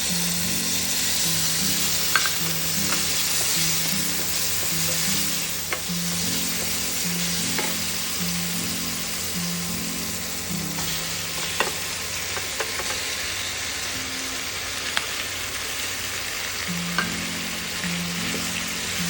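Food sizzling as it fries in hot oil in a pan, a steady hiss with scattered sharp pops and spatters. Soft background music plays under it.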